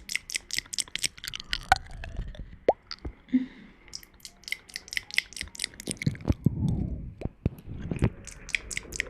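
Close-miked ASMR mouth sounds: rapid wet clicks and smacks, several a second, with a few soft low thuds about two-thirds of the way through.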